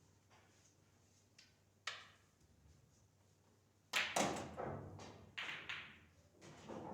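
Pool balls clacking: one sharp click about two seconds in, then from about four seconds a quick run of loud clacks and knocks as the balls strike one another and the cushions.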